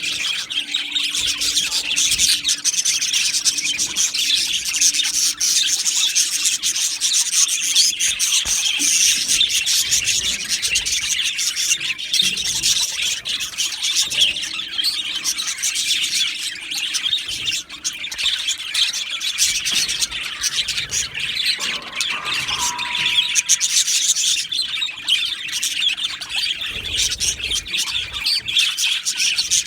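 A flock of budgerigars chattering, chirping and warbling together in a dense, continuous stream of overlapping calls.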